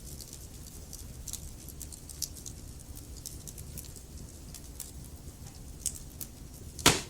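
Wood fire burning in a fireplace: a low steady rumble of flames with irregular small crackles of burning logs, and one loud pop near the end.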